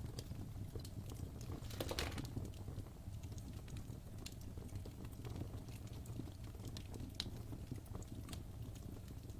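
Wood fire burning in a fireplace, crackling with irregular small pops over a low steady rumble, with a brief flurry of louder pops and hissing about two seconds in.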